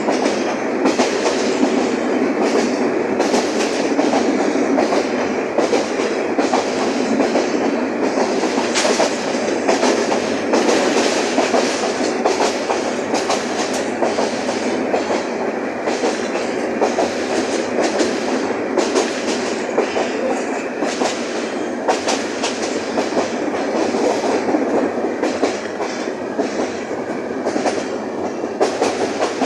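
Train running along the track: a steady rumbling clatter with frequent sharp clicks of the wheels over the rail joints.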